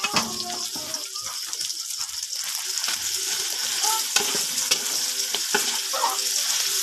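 Rice and pork frying in a wok: a steady sizzle, with the spatula scraping and knocking against the pan now and then as the rice is stirred.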